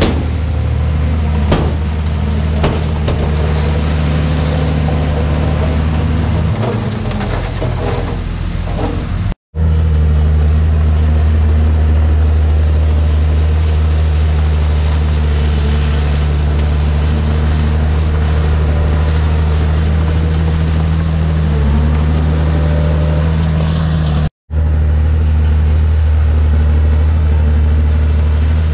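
Komatsu D51PX bulldozer's diesel engine running steadily under load, with a few metallic clanks in the first few seconds. The engine pitch dips and recovers twice, and the sound cuts out briefly twice.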